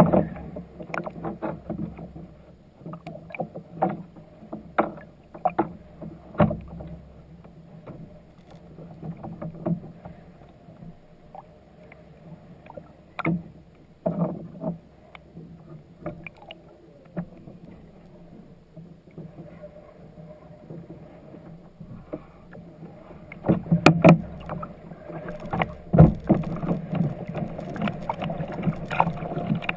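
Irregular knocks and clunks on a fishing kayak, with a busier run of knocks near the end and one heavy thump about 26 seconds in.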